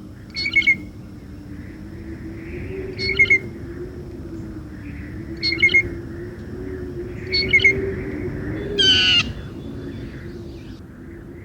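Backyard birds calling: a short double call repeats about every two seconds, and one louder, harsher call comes about nine seconds in, over a steady low hum.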